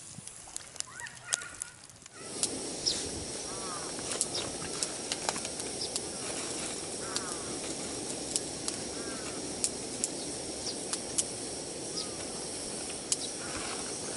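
Birds chirping in short repeated calls over a steady hiss that sets in suddenly about two seconds in, with scattered sharp crackles and clicks.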